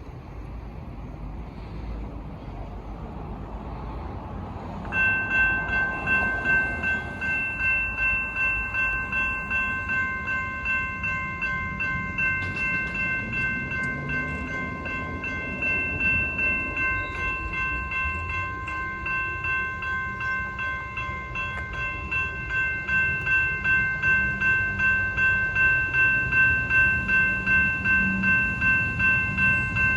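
A railway level crossing's warning bell starts ringing about five seconds in: an even run of metallic dings at about two a second, signalling that the crossing has activated for an approaching train. The bell grows louder towards the end, over a low rumble.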